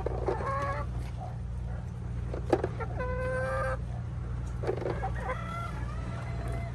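Chickens clucking and calling, with a longer held call about three seconds in and a few short knocks, over a steady low hum.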